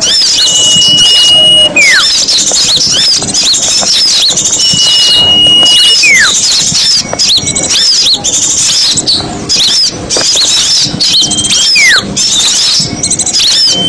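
A lure recording of a noisy flock of small songbirds: dense, rapid high-pitched chirping and twittering. Every few seconds a long level whistle stands out, and now and then a whistle slides downward in pitch.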